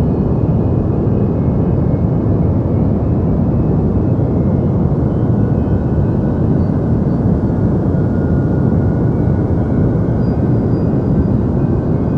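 Steady deep white noise: a constant, even rumbling hiss weighted toward the low end, with no change in level.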